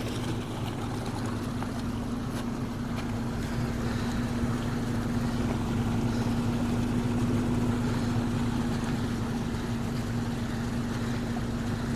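Fast-flowing floodwater rushing across a dirt road, with a steady low hum running under it.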